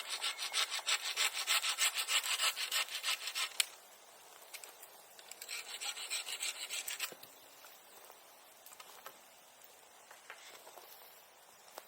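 Hand saw cutting through wood in rapid, even back-and-forth strokes for about three and a half seconds, ending in a sharp crack. After a short pause comes a second, briefer run of sawing strokes.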